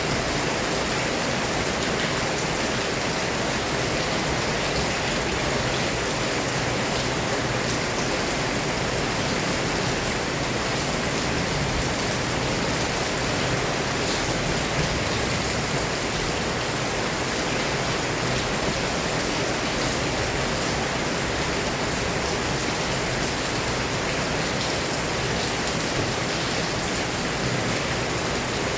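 Heavy rain falling steadily: a dense, even hiss of downpour with fine patter of drops, unchanging throughout.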